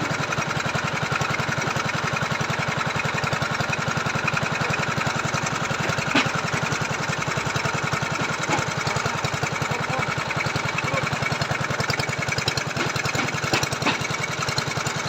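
Small engine of a motorized foundation-boring auger running steadily with a fast even beat, with a few sharp knocks now and then.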